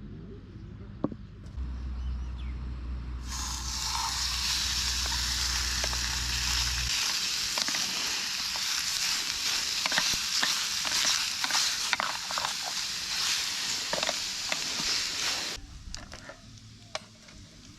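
Food frying in a hot pan: a steady sizzle full of small crackles that starts suddenly about three seconds in and cuts off near the end. A low hum sounds under it for the first few seconds.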